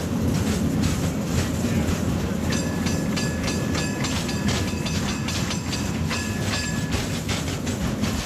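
Train running along the track: a steady low rumble with sharp clicks of wheels over rail joints. From about two and a half seconds in until near the end, a high ringing tone sounds with a rapid, even clatter.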